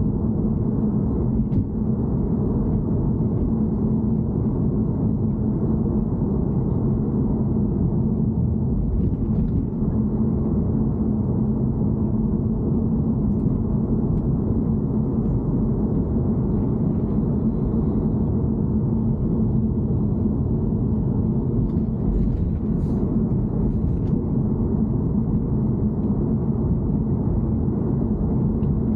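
An E90 car's steady low rumble with a constant low hum running under it, the abnormal noise (異音) its owner is recording.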